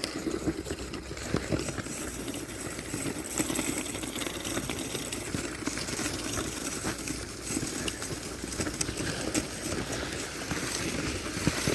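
Wooden sıka skis sliding over snow: a steady scraping hiss.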